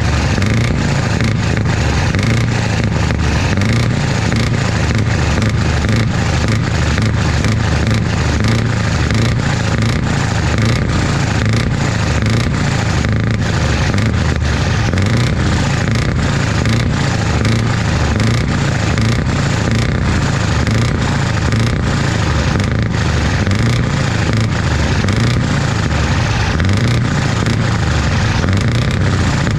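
Scania 164 580 truck's V8 diesel engine running loud and steady, with a deep exhaust note that holds at one level.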